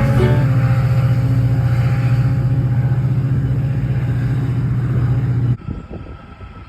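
Diesel locomotive engine running loud and steady at close range, with a low pulsing drone, cutting off suddenly about five and a half seconds in.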